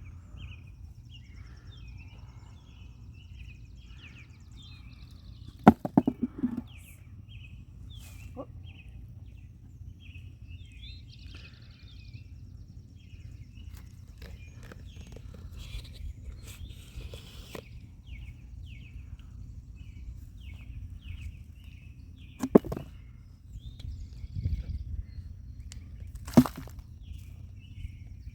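Digging for potatoes in garden soil: a few sharp knocks and scrapes from the digging. Behind them, outdoors, runs a steady series of high, short chirps, two or three a second.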